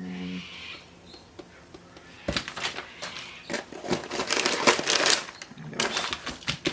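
Plastic freezer bag crinkling and rustling as it is handled: a run of crackling for about three seconds, then a shorter one near the end.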